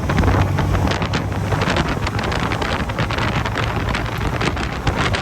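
1977 MGB Roadster's 1,950cc four-cylinder engine running steadily at cruising speed in overdrive through its sports exhaust, with wind buffeting the microphone.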